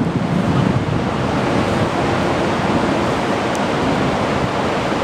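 Steady rushing ambience of a station platform beside a parked Shinkansen train, with no clear tones or distinct events apart from a faint tick about three and a half seconds in.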